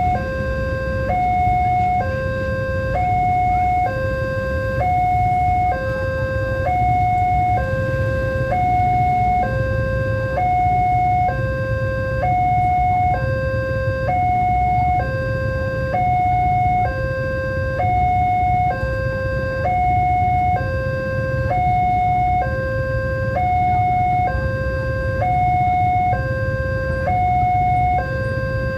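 Railway level-crossing warning alarm sounding a two-tone high-low signal, each tone held about a second, repeating evenly without a break. A steady low rumble runs underneath.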